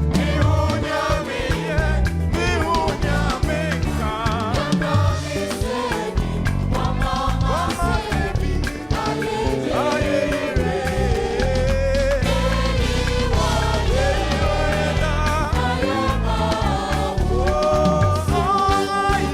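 Gospel music: a choir singing with a full band, with strong bass and a steady beat.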